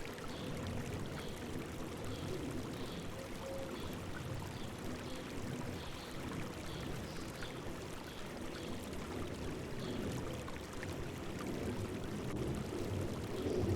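River water babbling and rushing over rocks in a steady flow, with faint, short, high chirps of a bird repeating every half second to a second.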